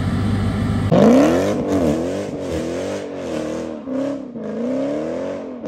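Dodge Hellcat's supercharged 6.2-litre HEMI V8 accelerating hard. It holds a steady note for about a second, then its revs climb and drop several times in quick succession.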